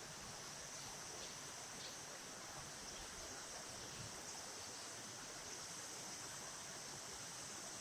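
Faint, steady flowing river water with a continuous high insect drone over it.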